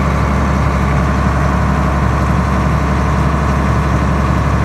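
Tractor engine running at a steady speed, heard from inside the cab, with a constant low hum.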